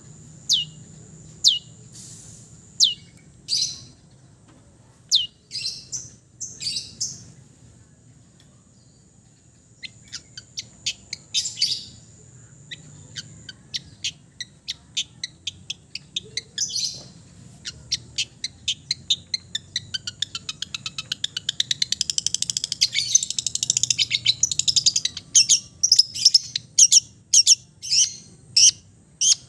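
Long-tailed shrike (cendet) singing. It gives sharp downward-sweeping calls about once a second, then fast runs of clicking notes and a dense warbling stretch in the second half, then more sharp calls near the end, with mimicked songs of other birds worked in.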